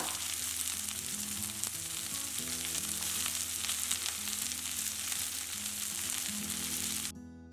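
Sliced onions frying in hot oil in a pressure cooker, a steady dense sizzle that cuts off abruptly about seven seconds in. Background music plays throughout.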